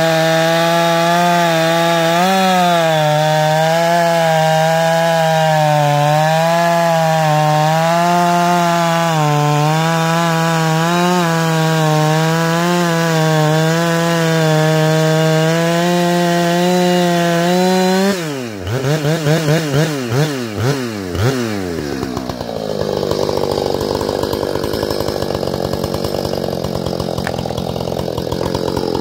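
Ported, muffler-modded Husqvarna 455 Rancher two-stroke chainsaw held at full throttle in a cut, its pitch wavering slightly under load. About 18 seconds in, the engine speed swings sharply up and down several times, then settles into a quieter, rougher running sound.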